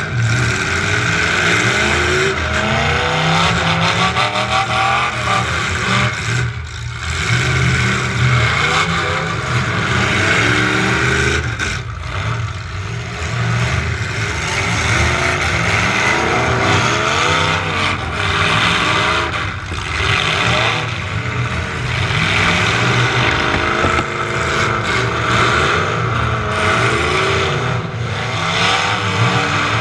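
Demolition derby truck engine revving hard, its pitch rising and falling over and over as it accelerates and backs off.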